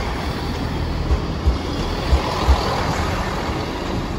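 Steady rumbling noise of a passing vehicle, swelling a little in the middle, with irregular low thuds throughout.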